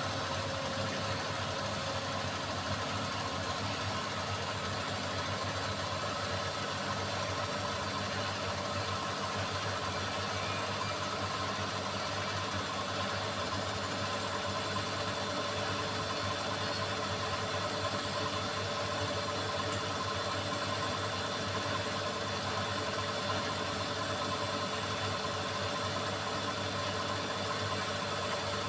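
Beko WMY81283LMB2 washing machine running steadily: a constant motor hum with a few steady whining tones, holding the same pitch and level throughout.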